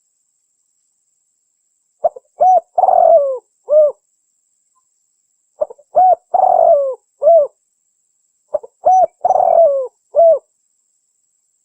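Spotted dove calling: three cooing phrases about three seconds apart. Each phrase is a couple of short coos, then a longer, rougher coo that falls in pitch, then a short final coo.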